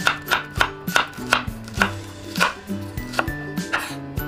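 Chef's knife chopping through shallots onto a wooden cutting board, sharp knocks about two a second, over light background music.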